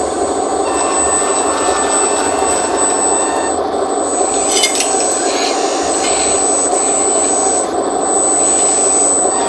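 Hydraulic pump and motors of a 1:14-scale RC skid steer loader (Double E Bobcat E116) running steadily with a thin high whine, with brief clicking about halfway through.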